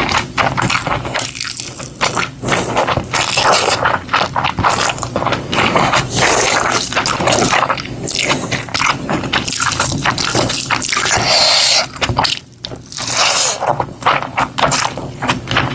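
Close-miked eating sounds of soft, sticky food: wet chewing and squishing with irregular scraping, a brief lull about twelve seconds in.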